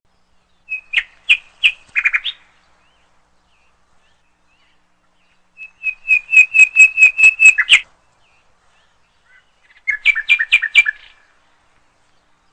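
A bird calling in three bursts of rapid, repeated sharp chirps. The middle burst is the longest, about eight notes at roughly four a second, and the last burst comes near the end.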